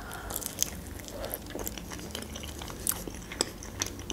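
Close-miked chewing of a mouthful of soft lavash casserole with cheese and sausage: quiet wet mouth sounds with scattered small clicks.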